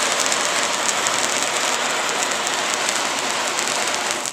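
Handheld Jumbo California Candle firework spraying sparks with a steady, loud hiss, which cuts off suddenly at the very end as the firework burns out, followed by a few crackling ticks.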